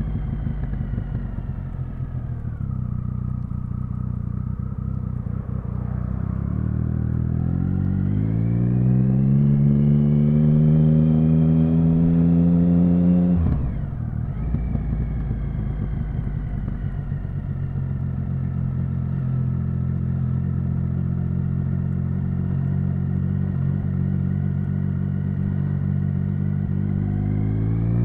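Triumph Speed Triple 1050's three-cylinder engine under way: revs fall, hold low for a few seconds, then climb steadily for about five seconds before a sudden drop about halfway through. It then runs steadily at lower revs and starts to climb again near the end.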